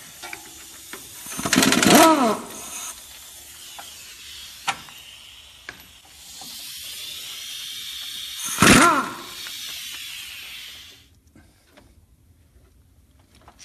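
Two short whirring bursts from an air tool, each with its pitch sliding as it speeds up and slows down, with a few sharp clicks between them. A steady hiss runs for about five seconds around the second burst.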